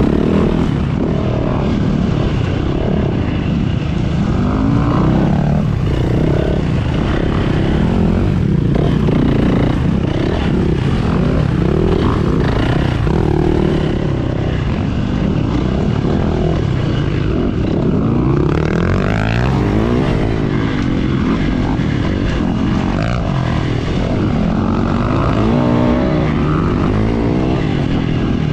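Four-stroke dirt bike engine being ridden, its pitch constantly rising and falling as the throttle is worked on and off.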